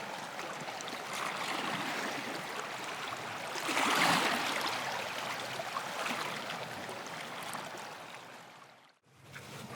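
Steady rushing noise of running water, swelling about four seconds in and fading out near the end. A different ambience with a low hum cuts in just before the end.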